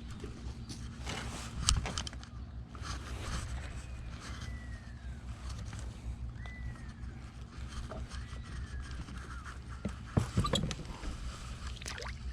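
A bird gives three separate falling whistled calls over a steady low rumble, with a few sharp knocks, the loudest about two seconds in and near the end.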